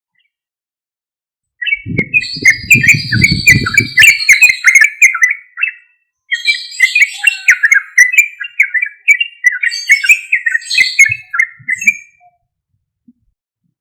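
Yellow-vented bulbul (trucuk) song: loud, rapid chattering phrases in two long bursts separated by a brief pause. This is the lively "gacor" song used to provoke other trucuk into singing. A low rumble runs under the first burst.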